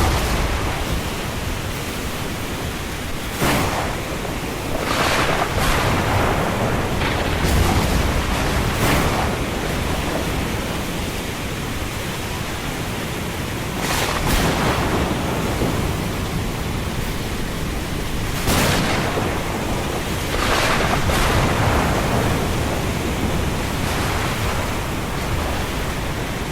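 Thunderstorm ambience: a steady rush of rain and wind, with sudden louder surges every few seconds that fade out again.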